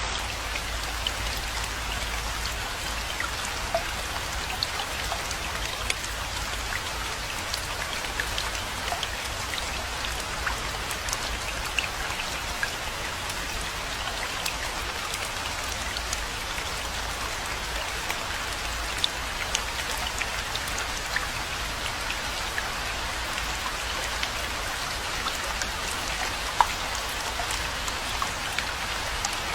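Steady rainfall, a dense even hiss sprinkled with the ticks of individual drops and a low steady rumble underneath; one drop ticks louder near the end.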